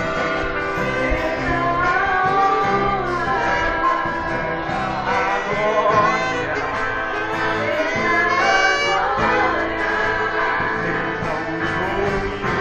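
Gospel song sung by a vocal group with instrumental accompaniment, the voices holding and bending long melodic notes.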